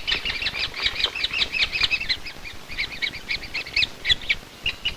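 Great spotted woodpecker nestlings calling in the nest: a rapid, continuous run of short high chirps, several a second, that grows sparser near the end.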